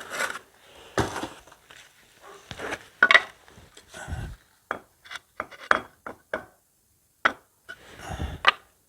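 Steel trowel scraping mortar and tapping on brick while a brick is set in the mortar bed: irregular short, sharp taps and scrapes, with a dull thump about four seconds in.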